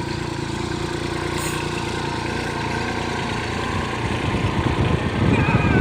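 Kubota B2441 compact tractor's diesel engine running steadily, growing louder and rougher near the end.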